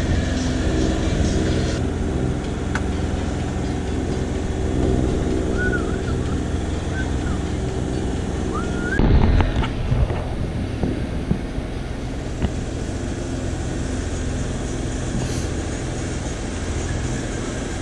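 Sailboat's inboard engine running steadily under way, with wind and water noise; a louder rush of water or wind comes about halfway through, and a few faint short chirps are heard before it.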